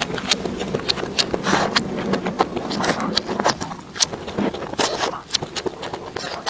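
Close-up eating sounds: chewing with many quick, irregular wet clicks and smacks of the mouth.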